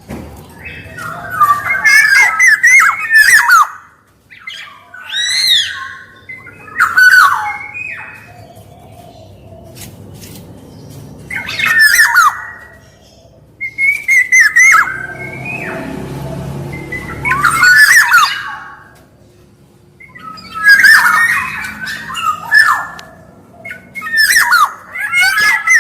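Black-naped oriole (kepodang emas) calling: repeated short phrases of fluty, sweeping whistles mixed with harsher notes, coming every two to three seconds. A low rushing noise sits under the calls around the middle.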